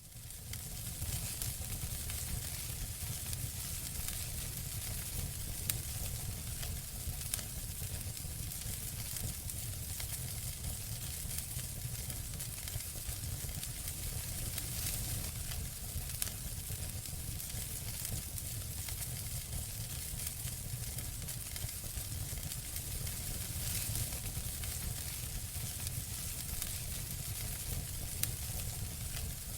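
Campfire crackling: a steady hiss scattered with many small, sharp pops, over a low rumble. It fades in over the first second.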